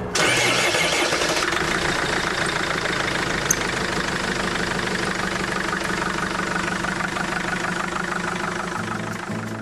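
Courier delivery truck's engine idling steadily, starting abruptly and fading out near the end, with one sharp click about three and a half seconds in.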